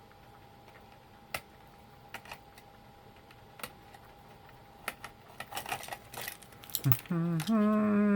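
Scattered light clicks and taps of small plastic and metal parts being handled during disassembly of an electronic label maker, busier about two thirds of the way in. Near the end a person hums one pitched note for about a second and a half, the loudest sound.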